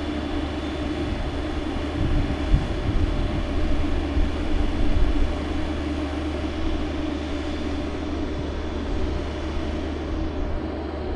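An engine running at a steady speed, with a few low thumps a couple of seconds in.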